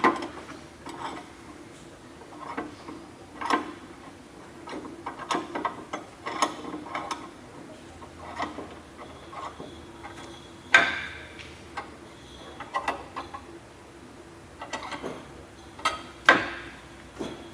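Metal clicks, ratcheting and knocks of a clamp being fitted and tightened to hold a workpiece down on a bandsaw table, with two louder clanks about 11 and 16 seconds in.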